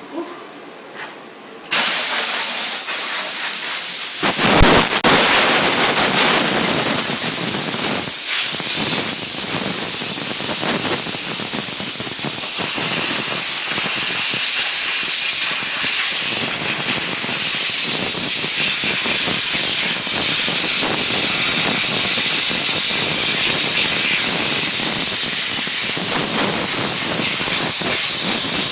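Steam-cleaning machine's wand spraying steam in a loud, steady hiss that starts abruptly about two seconds in, after a couple of soft clicks, with a brief stronger surge a few seconds later.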